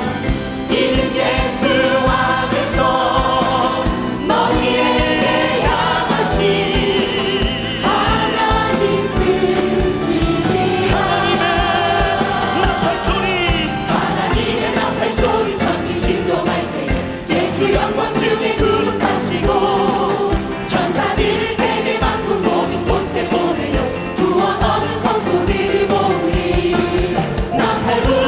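Choir and congregation singing a hymn with instrumental accompaniment.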